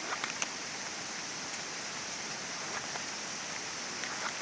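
Steady rush of flowing water, with a few faint ticks.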